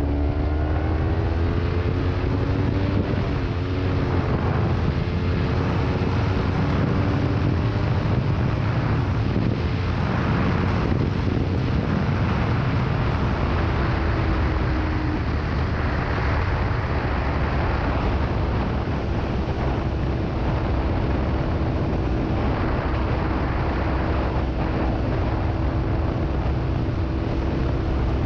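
Kawasaki Ninja 300 parallel-twin engine through a Delkevic aftermarket exhaust, ridden at highway speed with heavy wind noise on the microphone. The engine note rises over the first few seconds, dips briefly near four seconds at a gear change, then holds a steady cruising note.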